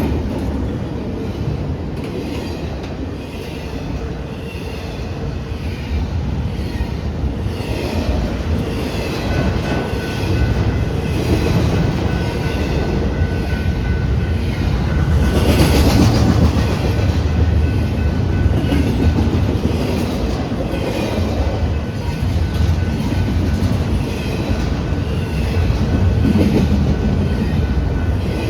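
A train rolling past on the tracks, its wheels clattering steadily over the rails. A thin high wheel squeal joins about nine seconds in.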